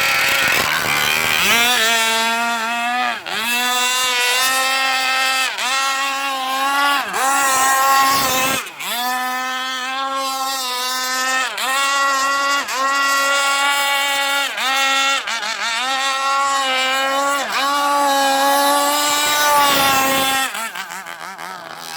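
Petrol two-stroke engine of a radio-controlled speedboat running at high revs, its pitch dipping briefly about once a second. Near the end it falls to a lower, quieter note as the throttle comes off.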